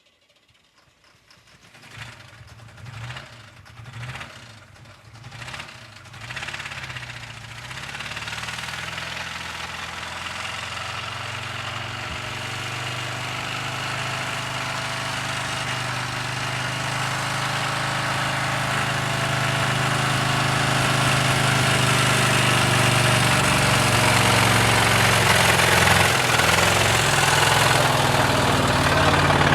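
Blown car engine being restarted: a few uneven sputtering catches, then it fires and runs steadily, getting gradually louder.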